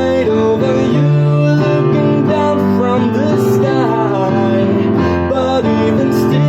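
A song: acoustic guitar accompanying a voice singing a slow melody that glides between notes.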